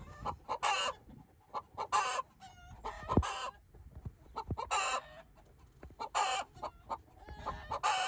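Chicken clucking, with loud squawking calls about every second and a half and softer clucks in between.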